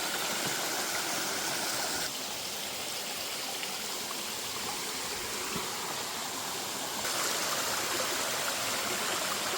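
A rushing stream running full, a steady rush of water over rocks. The sound dips slightly about two seconds in and comes back up about seven seconds in.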